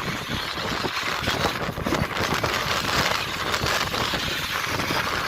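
RC monster trucks driving, a steady rough noise full of small crackles and knocks from the tyres and chassis, with no clear motor whine.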